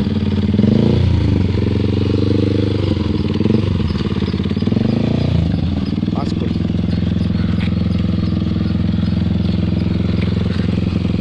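Bajaj Pulsar NS200's single-cylinder engine running through an aftermarket Akrapovic exhaust: revved a few times, rising and falling, then settling to a steady idle about six seconds in.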